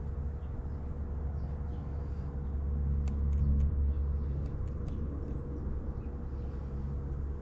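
Steady low rumble of a running vehicle with a faint constant hum, swelling slightly about three seconds in, with a few faint sharp clicks in the middle.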